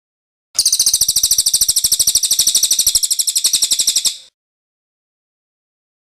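Cililin bird's rolling trill ('ngerol'): a fast, even run of high notes, about a dozen a second, lasting roughly three and a half seconds before it stops abruptly.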